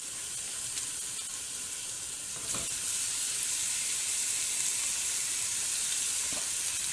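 Raw ground-beef patties sizzling in hot oil in a frying pan. The sizzle gets louder about two and a half seconds in, as a second patty goes into the pan.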